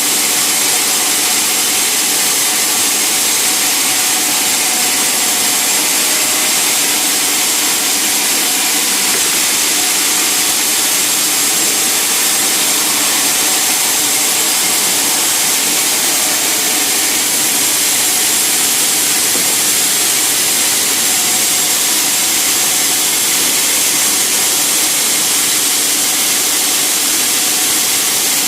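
Sawmill saw machinery running steadily and loudly, a continuous noise strongest in the high range with a faint steady hum under it.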